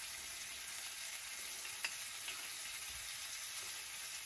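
Halved tomatoes sizzling steadily as they fry in a hot skillet on the stovetop. About two seconds in there are a couple of faint clicks of a spoon against the pan as pesto is dabbed on.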